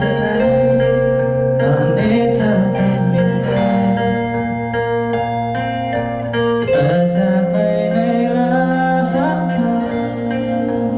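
Live band playing a slow pop ballad, with sustained chords and a sung melody.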